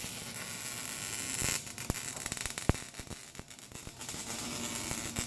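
Electric welding arc crackling and hissing as an exhaust pipe section is welded in: a steady frying hiss that breaks into irregular sharp pops and crackles in the middle, then settles again.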